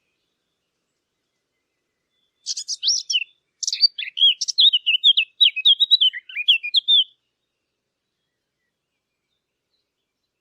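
A Sylvia warbler, the bird known in Arabic as the fig bird, singing one fast, varied warbling song phrase that starts about two and a half seconds in and runs for some four and a half seconds with two short breaks, then stops.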